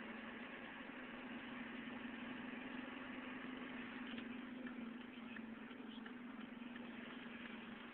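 Truck engine running steadily with an even hum, heard faintly, with a few light ticks from about halfway through.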